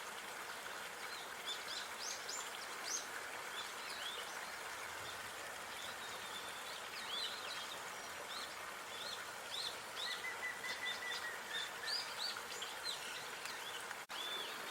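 Small birds chirping in quick, high calls over a steady outdoor hiss, with a short level trill about ten seconds in. The sound cuts out for a moment near the end.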